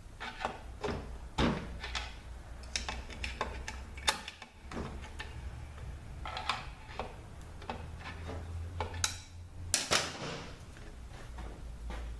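Metal hand tools clinking, scraping and knocking on a transmission case while a tight nut is being worked loose, with a sharp knock about ten seconds in, over a steady low hum.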